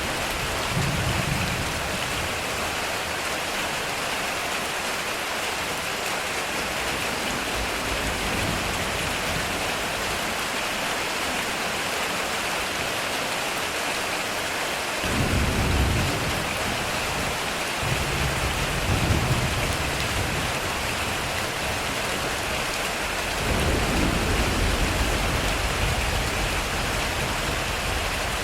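Heavy rain drumming steadily on a metal roof, with low rolls of thunder swelling up several times: briefly about a second in, then about halfway through, and longest in the last few seconds.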